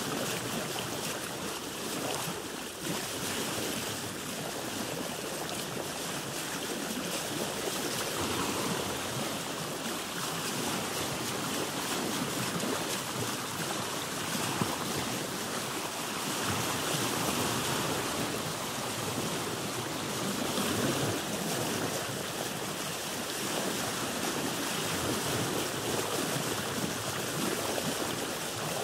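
Sea water sloshing and lapping against a boat's hull: a continuous wash of water noise with irregular surges, and one brief tap about halfway through.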